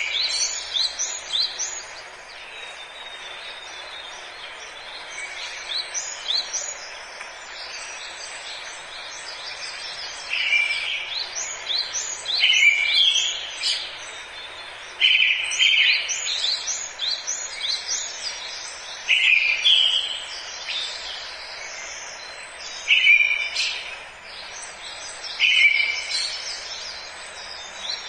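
Forest birdsong: several birds chirping and trilling, with one loud phrase repeated every two to four seconds in the second half, over a steady background hiss.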